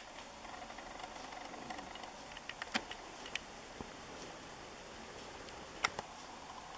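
A few light, sharp clicks and taps, scattered irregularly, with a small cluster in the middle and a pair near the end, over a faint steady background hiss.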